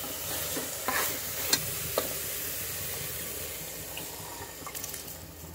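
Onion, soya and yogurt masala sizzling steadily in ghee and oil in an open aluminium pressure cooker, fried until the oil has separated, with a few sharp clicks of a spoon against the pot in the first two seconds.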